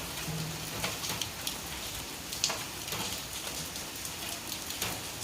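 Steady rain falling, with scattered single drops striking close by.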